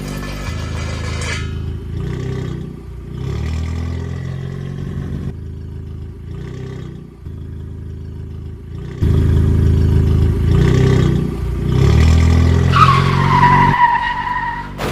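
A vehicle engine running, louder from about nine seconds in, with a short high squeal sliding downward near the end.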